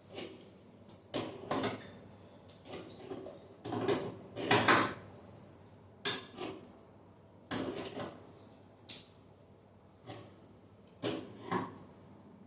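Irregular knocks, clanks and scrapes of tools and metal parts being handled, a dozen or so separate clatters with the loudest about halfway through.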